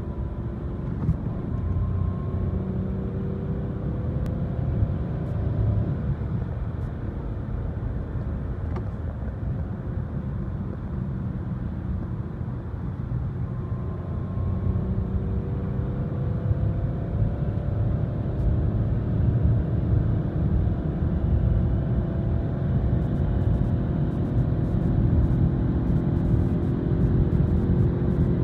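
Opel car's engine and road noise heard inside the cabin under kickdown acceleration at motorway speed, the engine note climbing steadily as the revs rise, and growing louder over the second half.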